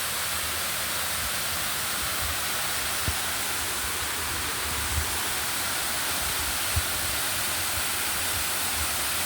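Steady rush of water, with three brief low thumps about three, five and seven seconds in.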